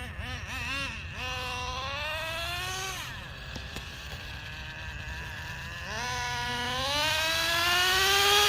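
Traxxas Nitro Revo 3.3's two-stroke nitro glow engine running under throttle on an RC monster truck, its high buzzing pitch climbing in two long accelerations, with a short wavering blip of throttle near the start.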